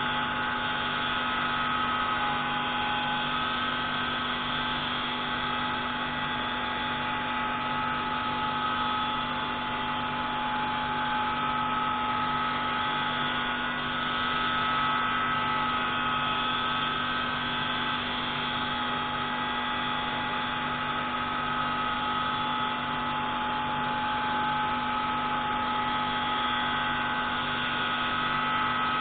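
Pneumatic grinding tool running steadily while grinding the intake valve of a MAK 601C marine engine: a constant whine with several steady pitches, at an unchanging level.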